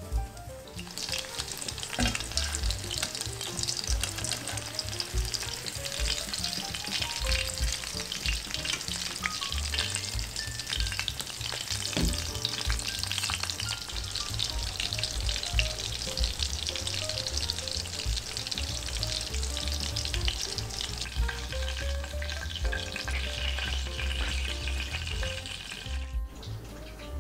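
Breaded fillets shallow-frying in hot oil in a pan, sizzling steadily with fine crackles, over soft background music. The sizzle cuts off abruptly about a second before the end.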